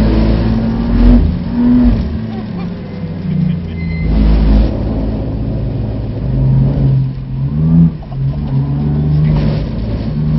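BMW F80 M3's twin-turbo straight-six heard from inside the cabin, its note stepping down as the car slows for a bend, then rising again as it accelerates out on a wet track.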